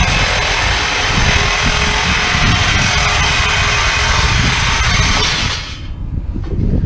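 Power tool cutting through metal, running steadily and loudly, then cutting off sharply about five and a half seconds in.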